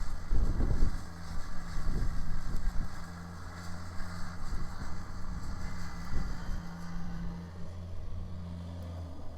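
Kubota BX sub-compact tractor's diesel engine running steadily while working a rear-mounted Kubota 2789 snow blower, a steady low hum with a few brief low rumbles, the strongest in the first second.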